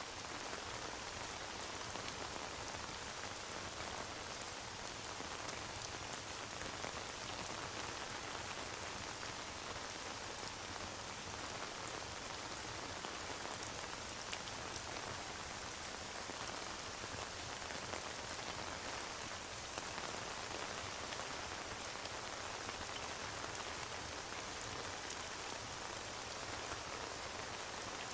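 Steady rain falling, an even hiss of rain on a surface with fine scattered drop ticks that does not change throughout.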